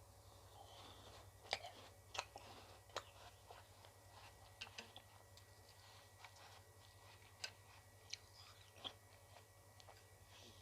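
Close-up chewing and biting of ice cream, with a scatter of sharp, crisp crunches: about a dozen small cracks, a few of them louder.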